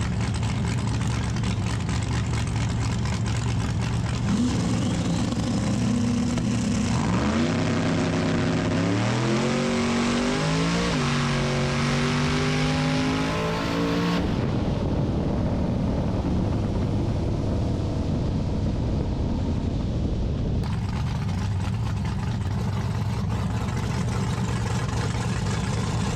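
Drag racing truck making a full-throttle pass: after a few seconds of steady running, the engine climbs in pitch from about four seconds in, stepping back at each gear change, then drops suddenly about fourteen seconds in as the driver lets off the throttle at the top end. It keeps running steadily at a lower pitch after that.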